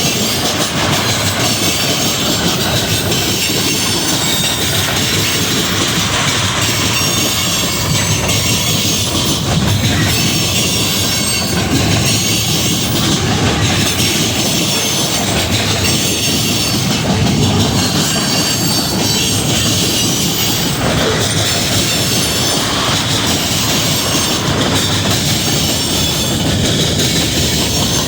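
Railroad cars of a passing train rolling steadily by, wheels clacking over the rail joints with some thin wheel squeal.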